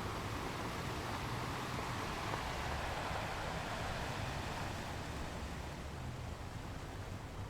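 Sea waves washing onto a beach: a steady hiss of surf that swells over the first few seconds and slowly recedes toward the end.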